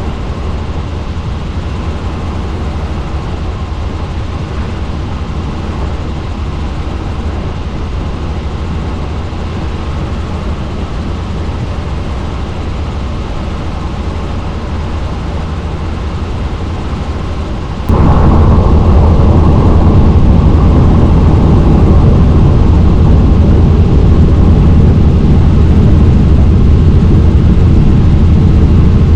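Helicopter in flight: a loud, steady drone of rotor and engine noise. It becomes abruptly louder and fuller about two-thirds of the way through.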